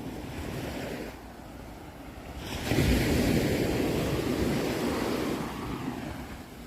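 Sea waves on a shore: a short lull, then a wave breaks about two and a half seconds in and washes back, slowly fading.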